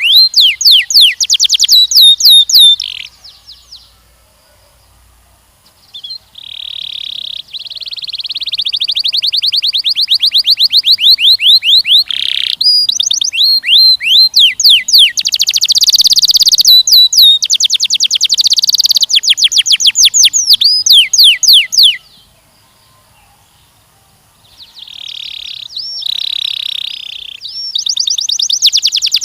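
Canary singing long rolling trills of rapidly repeated sweeping notes, each phrase changing to a new note type. The song stops twice for a few seconds, about three seconds in and again a little past twenty seconds.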